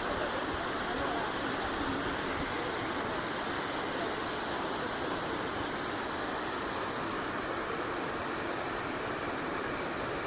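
Waterfall: falling water giving a steady, even rush of noise with no breaks.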